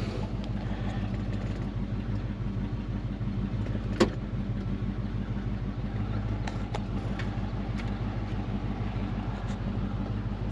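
AMC 390 V8 of a 1968 AMC AMX idling steadily, with a sharp click about four seconds in and a few faint clicks later.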